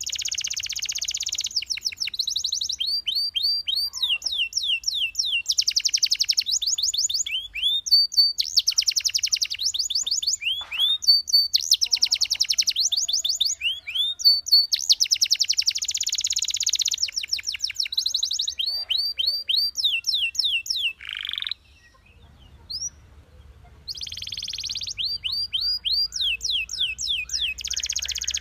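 Belgian canary singing a long song of very fast, buzzy trills alternating with runs of quick down-slurred whistled notes. The song breaks off briefly about 22 seconds in, then resumes.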